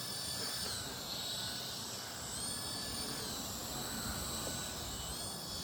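Small electric rotor motors of a hand-controlled infrared-sensing toy helicopter whining as it flies. The pitch drops and rises several times as the rotors slow and speed up.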